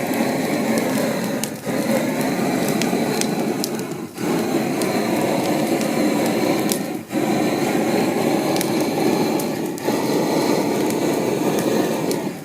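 Wood campfire burning, with a steady rushing noise and many small sharp crackles and pops.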